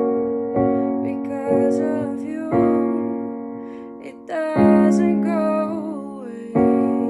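Slow piano chords, struck every second or two and left to ring and fade, with a soft wavering melodic line over some of them.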